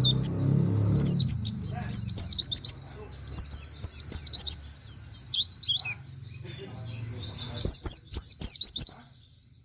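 Pleci (white-eye) singing in quick runs of high, downward-slurred chirps, with short pauses between the runs and a longer gap after the middle run.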